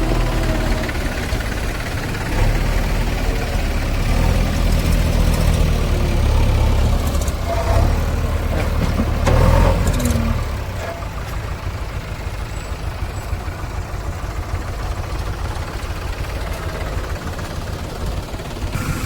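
Heavy diesel engine of a backhoe loader working, with a few clatters around the middle, then settling to a quieter, steady idle for the second half.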